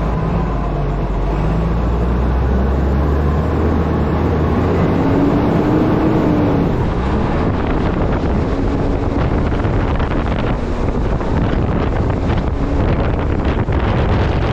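Truck engine running low and steady, then after about four seconds giving way to loud wind rushing over a camera microphone mounted on the front of the truck as it gets under way.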